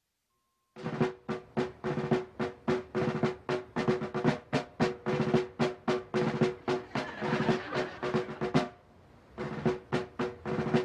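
Drums, led by a snare, playing a fast rhythmic pattern of strikes that starts about a second in, breaks off briefly near the end, then resumes.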